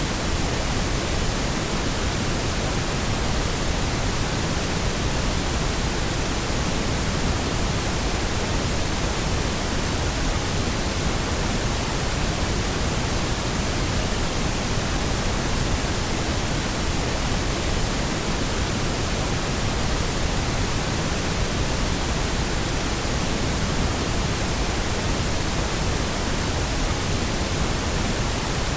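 Steady synthetic pink noise: an even, unchanging hiss across all frequencies, with no breaks or events.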